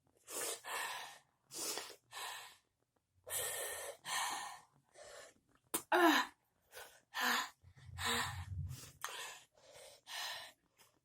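A person breathing hard through the mouth in a long string of short, hissy gasps, one or two a second, from a mouth burning after eating spicy Takis chips nonstop.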